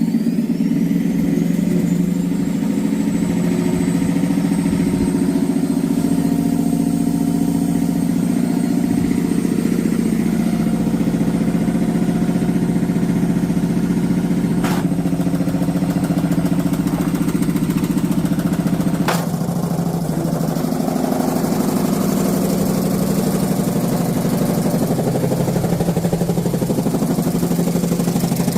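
Washing machine running a spin, its motor whine rising in the first second and then holding steady over a loud, even drone from the shaking drum. Two sharp clicks or knocks come through, about fifteen and nineteen seconds in.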